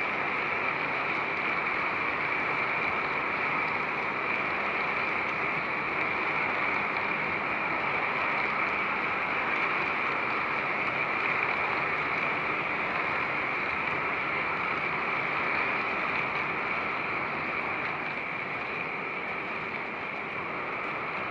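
Model train running steadily around a three-rail layout: an even whirring of wheels and motors on the track.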